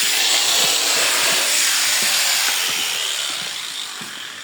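Sheep-shearing clippers running with a steady, noisy buzz that eases off over about the last second.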